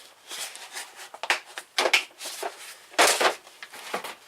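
Tools and kit cases being handled and moved around in a tool box drawer: a handful of short scrapes and knocks.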